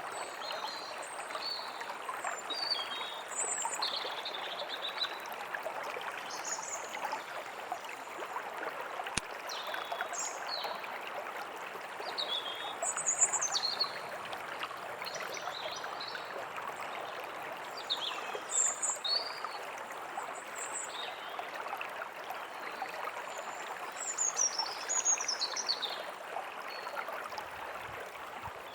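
Forest stream running steadily, with small birds chirping over it: many short, high, quickly gliding calls scattered throughout.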